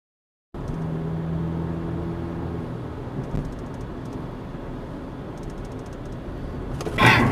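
A car driving, with its engine hum and road noise starting abruptly after a brief silence. Near the end a sudden loud crash breaks in: the start of a collision.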